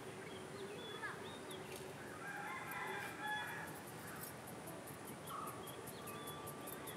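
Birds calling faintly: short chirps here and there, and a longer call about two and a half seconds in.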